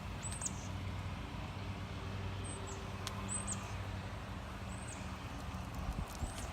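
Ford F-150 idling steadily through a Magnaflow dual exhaust with 3-inch piping and four 4-inch tips, a low even hum. A few short high bird chirps sound over it.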